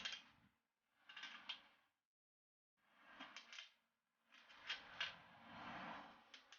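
Faint mechanical clicks and rattles, as of small hard parts being handled, in three short groups with dead silence between them.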